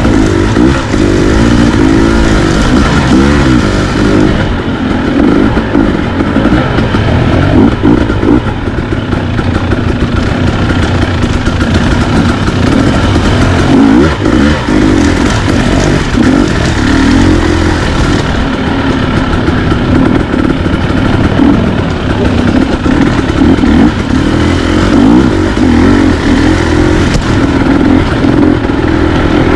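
Dirt bike engine running as it is ridden, its revs rising and falling over and over.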